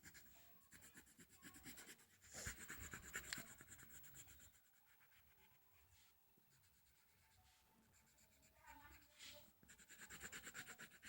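Faint scratching of a colored pencil on a colouring-book page: quick colouring strokes in a short run about two seconds in and again near the end.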